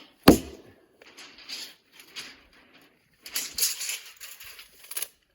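A single sharp knock, then scattered rustling and scraping handling noises, with a busier clatter about three and a half seconds in and a short click near the end.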